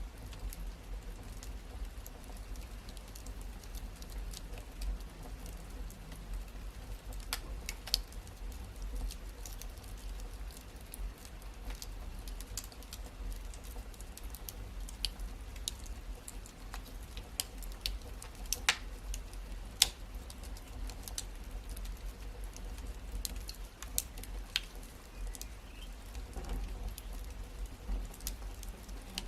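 Wood fire crackling: irregular sharp pops and snaps, the loudest a little past halfway, over a steady low rumble of the burning fire.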